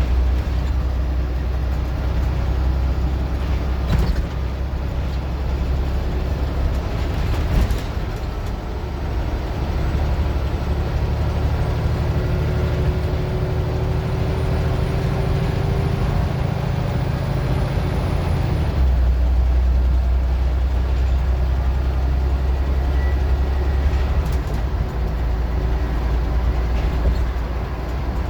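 Scania N94UD OmniDecka double-decker bus engine running under way, its low note changing about two-thirds of the way through, with a faint rising whine before that and a couple of sharp knocks or rattles.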